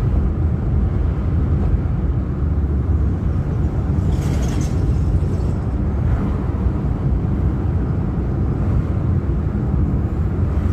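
Car engine and road rumble heard from inside the cabin while driving slowly, steady throughout, with a brief hiss about four seconds in.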